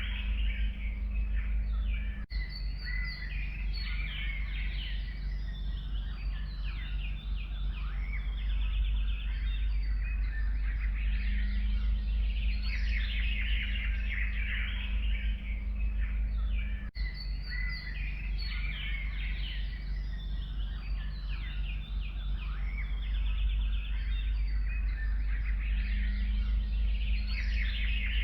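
Forest birds singing: many overlapping chirps, trills and short calls from several birds, over a steady low rumble. The sound briefly drops out twice, about two seconds in and again past the middle.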